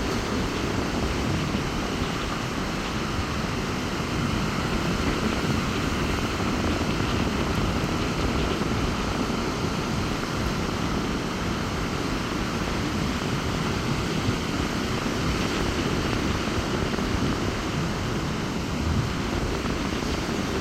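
Rough sea surf making a steady, loud, low rumble, with strong wind buffeting the microphone.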